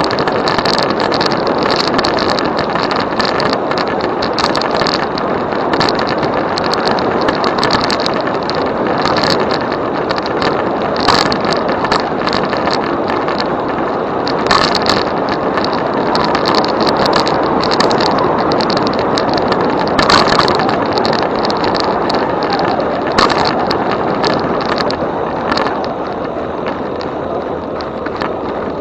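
Steady rush of wind and tyre noise from a moving e-bike, with a few sharp knocks from bumps in the path.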